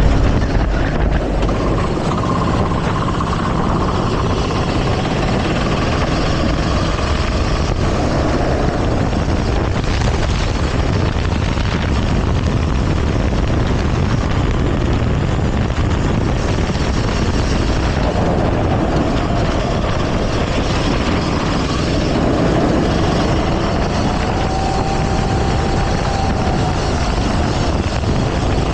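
Go-kart engine running hard, its pitch rising and falling as it speeds up and slows, mixed with heavy wind noise on the camera microphone.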